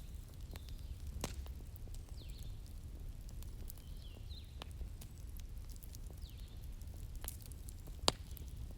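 Wood fire crackling, with scattered sharp pops over a low steady rumble; the loudest pop comes near the end. Faint short high chirps recur every second or two.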